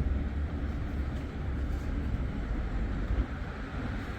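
Steady low rumble and running noise of a vehicle in motion, with no distinct events.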